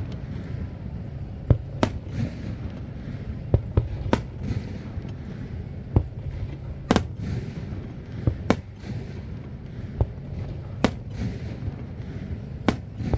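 Fireworks display: aerial shells bursting in about a dozen sharp bangs at irregular intervals, some followed by crackling, over a steady low rumble.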